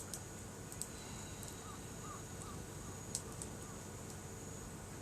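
Wood campfire crackling with a few sharp, scattered pops over a steady outdoor hush; a bird gives a quick run of four short rising chirps about two seconds in.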